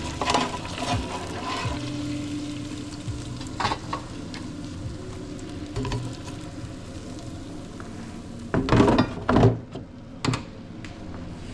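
Kitchen cooking sounds: a utensil stirring and scraping in a pot or pan over a steady sizzling hiss, with a few light knocks and a louder double clatter near the end.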